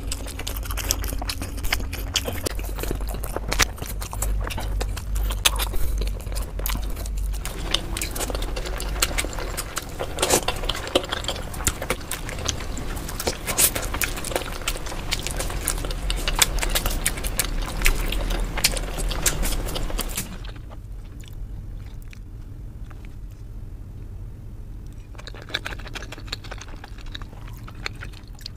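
Close-miked chewing of steamed momo dumplings: irregular wet mouth clicks and bites. About twenty seconds in, the sound changes to a quieter stretch of chewing.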